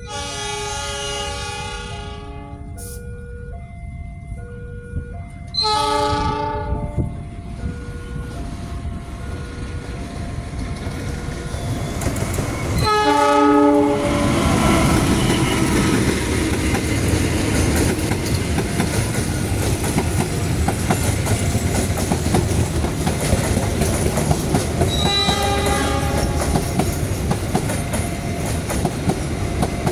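KAI CC206 diesel-electric locomotive sounding its horn in several blasts as it approaches and passes, hauling passenger coaches. The train noise builds into a steady loud rumble with wheels clacking over the rail joints, over a repeating electronic warning tone in the first few seconds.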